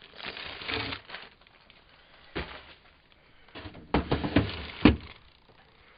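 Food containers and packages being handled while rummaging through a fridge: a rustle, a single knock, then a run of clunks and clatter, the loudest just before the end.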